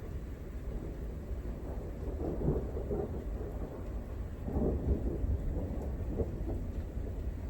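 Thunder rumbling over rain, swelling into two rough, crackling rolls: one about two seconds in and a stronger one around five seconds.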